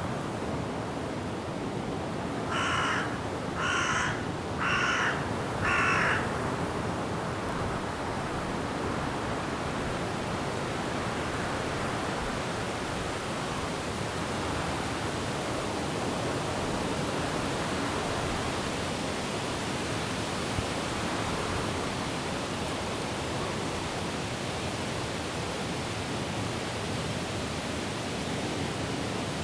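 Steady rush of wind through forest trees with rain, and a bird giving four short calls about a second apart, starting between two and three seconds in.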